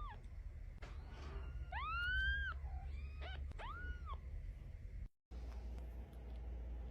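A cat meowing several times: a long rising-and-falling meow about two seconds in, a couple of short chirps, and another meow about four seconds in. The sound drops out briefly about five seconds in, leaving only a low hum.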